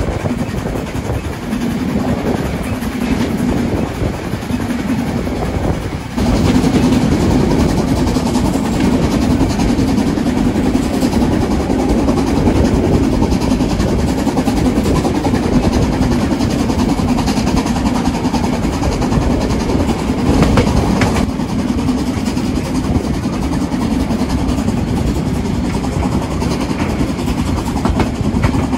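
A train on the Brocken line running along the track, with a steady rumble of wheels on rail. It gets louder about six seconds in and stays steady after that.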